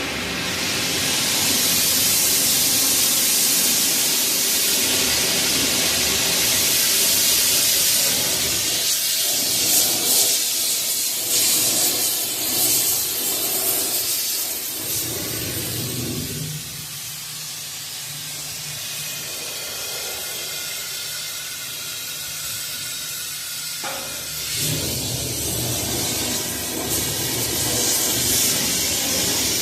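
Oxy-propane torch with a rosebud heating tip burning with a steady, loud hiss while it heats steel up for bending.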